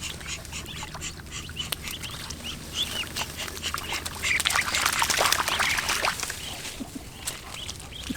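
A flock of ducks calling: many short squawks and quacks overlapping, growing busiest and loudest around the middle.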